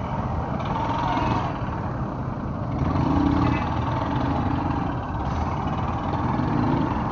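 Motorcycle engine running amid slow road traffic, a steady low rumble while riding through a traffic jam.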